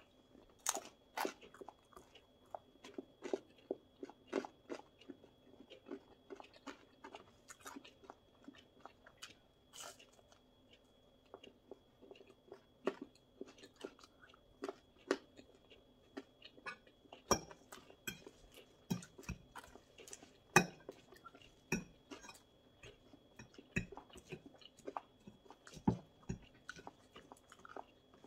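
Close-miked biting, chewing and crunching of a crisp, thin flammkuchen crust: a long, irregular string of short crunches and mouth clicks, a few of them louder in the second half.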